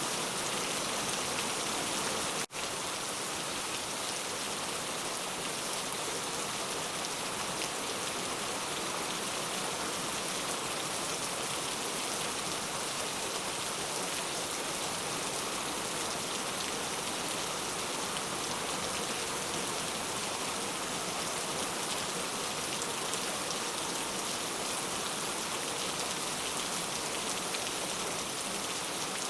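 Steady rain falling, an even hiss with no let-up, broken by a split-second dropout about two and a half seconds in.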